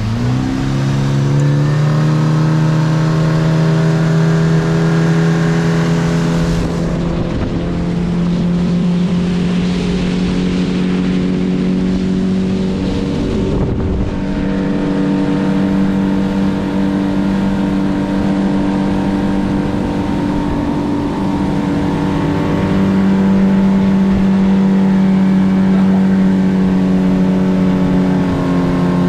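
Mariner outboard motor driving a small fishing boat under way: it is throttled up in the first couple of seconds, its pitch rising, then holds a steady running note, rising slightly again about two-thirds of the way through.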